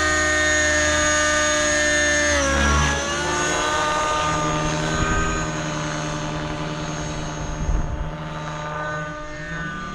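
Nitro-powered RC helicopter in flight: its 50-class glow engine, fitted with a tuned pipe, runs together with the rotor noise. Its note drops sharply about two and a half seconds in, holds lower, and starts to rise again near the end.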